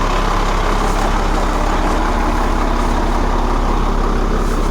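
The rear-mounted engine of a 1997 Blue Bird TC2000 RE school bus idling steadily.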